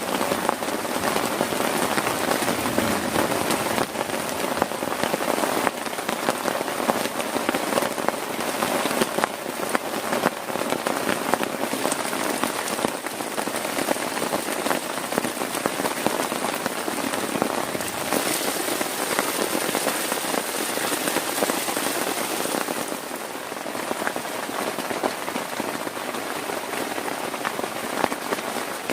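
Heavy rain pattering steadily on a plastic tarp, a dense patter of countless drop impacts.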